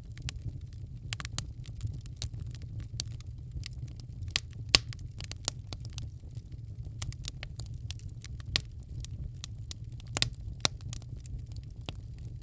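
Wood fire in a fireplace crackling, with irregular sharp pops and snaps, the loudest about 4.7 s in, over a steady low rumble.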